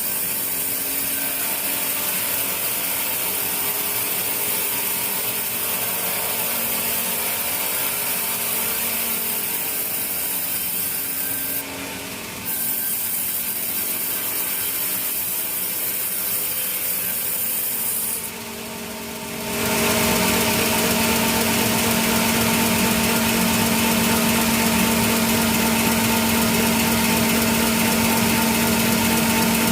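Sawmill saw running and cutting teak wood, a steady machine noise. It dips briefly twice, then from about two-thirds of the way in it grows louder, with a strong steady hum.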